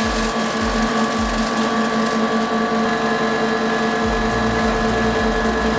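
Industrial shredder running: a steady motor hum at several pitches over a low, repeated thumping that pauses in the middle and picks up again about four seconds in.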